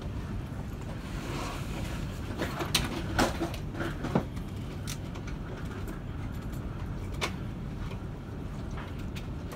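Cabin sound of a CR400AF-A Fuxing high-speed train rolling slowly into a station platform: a steady low rumble, with a few sharp clicks and knocks about 2.5 to 4 seconds in and another near 7 seconds.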